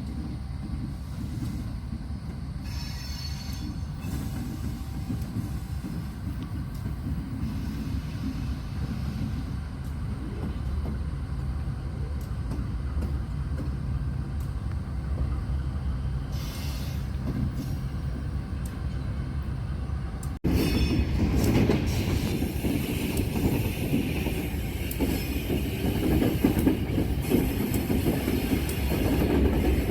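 Freight train running on the rails: a steady low rumble, then an abrupt cut about two-thirds of the way in to a louder, noisier stretch of the train rolling past.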